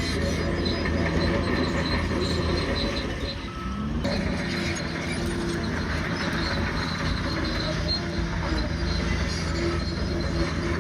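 Bulldozer working: a steady low diesel engine note under intermittent high-pitched squealing from its steel tracks. The sound dips briefly and changes abruptly about four seconds in.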